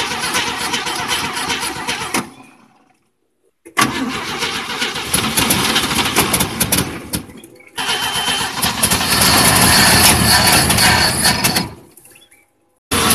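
Truck engine running loud and rough in three stretches, each fading or cutting off into a brief silence before the next begins.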